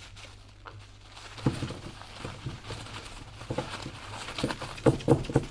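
A pet bird tearing and crumpling paper towel with its beak: irregular crinkles and taps, starting about a second and a half in and coming thicker near the end.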